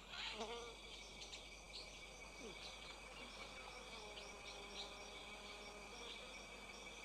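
Faint forest insect chorus: a steady high drone with short chirps repeating about twice a second.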